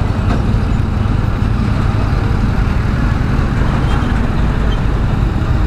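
Bajaj Dominar 400's single-cylinder engine running steadily while riding in traffic, under a continuous rush of road and traffic noise.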